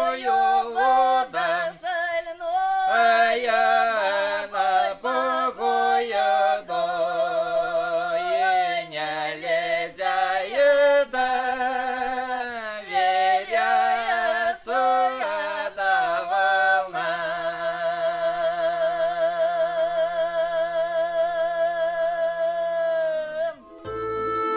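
A voice singing a song with wide vibrato over plucked-string accompaniment, ending on a long held note of about six seconds that breaks off near the end.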